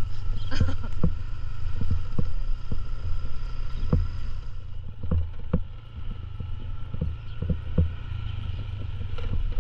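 Motorcycle on the move, with wind buffeting the microphone over the engine's steady whine. The whine drops away about halfway through, and frequent short knocks sound throughout.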